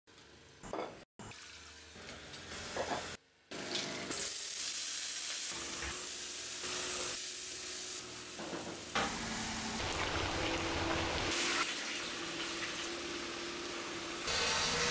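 Food sizzling as it fries in a wok while a spatula stirs it, steady from about four seconds in after a few short clipped sounds.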